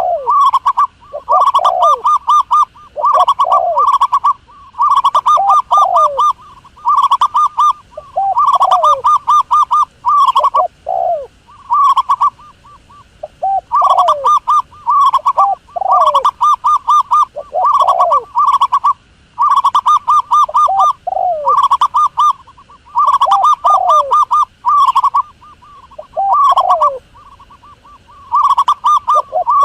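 A dove calls over and over, each call about a second long and repeated every one to two seconds. Each call is a fast run of pulsed cooing notes with one or two lower notes that fall in pitch.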